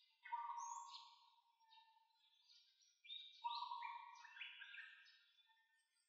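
A songbird singing two phrases of clear, whistled notes: one starting just after the start and one about three and a half seconds in, each fading out after a second or two.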